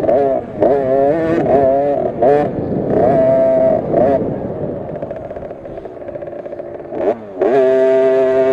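Two-stroke 50cc minibike engine, a KTM SX50, racing: revs rise and fall over and over, drop off for a couple of seconds in the middle, then hold steady at high revs near the end.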